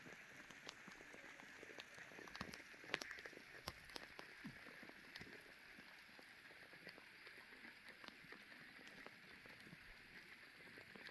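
Faint rain falling: a steady soft patter with scattered sharper drop ticks, more of them in the first few seconds.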